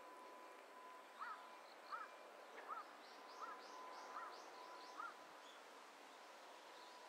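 Faint outdoor ambience with a bird calling six times, a short rising-and-falling note about every three-quarters of a second, while a second bird gives fainter high chirps in the middle. A faint steady high tone runs underneath.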